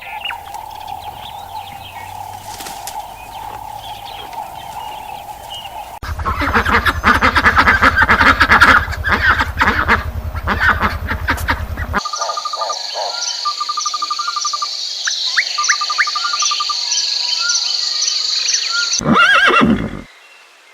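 A run of different animal calls, cutting abruptly from one to the next about every six seconds. First comes a steady tone with faint chirps, then a loud stretch of dense rapid calls, then a high insect-like trill with short repeated chirps, and finally a brief loud call near the end.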